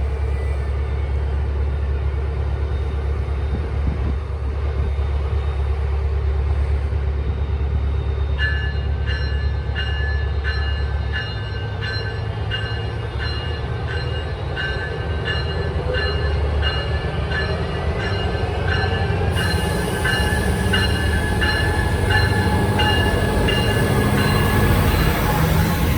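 A train rumbling on the line while a bell rings at a steady, even pace from about a third of the way in until shortly before the end.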